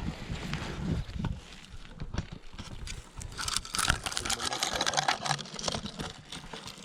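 Gorse branches rustling and crackling against a GoPro camera as it is pushed into the bush, with a few knocks of handling at first and the densest crackling a few seconds in.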